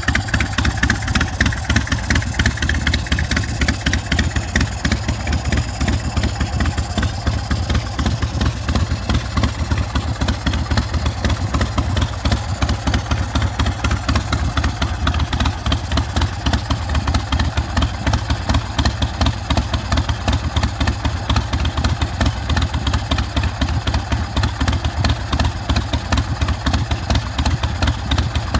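Carbureted 117 cubic inch S&S V-twin of a Big Dog K9 chopper idling steadily through a Vance & Hines Big Radius exhaust, a fast, even pulsing with no revving.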